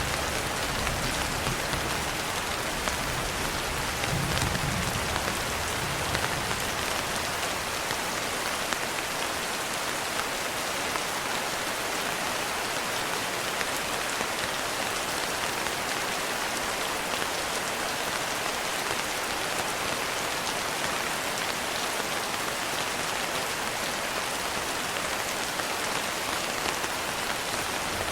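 Steady rain falling, an even hiss of drops, with a low rumble of thunder fading out over the first few seconds.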